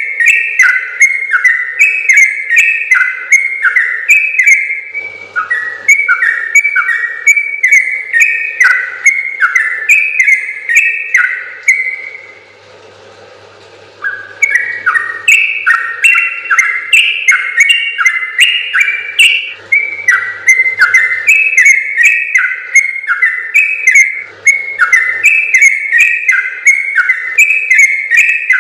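Yellow-vented bulbul (trucukan) singing a long, fast run of quick bubbling notes, broken once by a pause of about two seconds a little before the middle.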